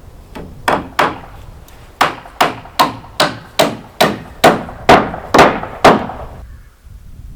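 Hammer blows: two strikes, then a steady run of about ten strikes at roughly two and a half a second, stopping about six seconds in.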